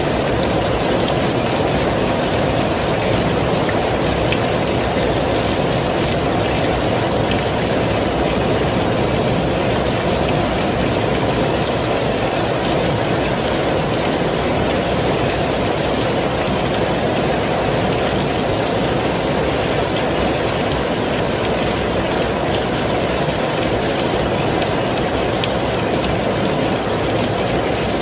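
Heavy rain falling steadily: a dense, even rushing noise with most of its weight low, unchanging throughout.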